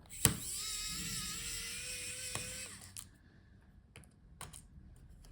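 A small electric screwdriver whirs steadily for about three seconds as it backs out the laptop battery's screws. A few light clicks of screws and the tool follow.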